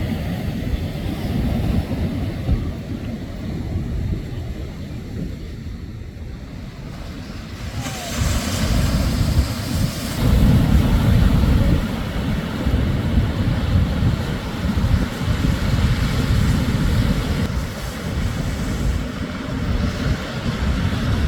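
Shorebreak waves breaking and washing up the beach, with wind buffeting the microphone. A wave breaks about eight seconds in, growing into the loudest stretch a couple of seconds later.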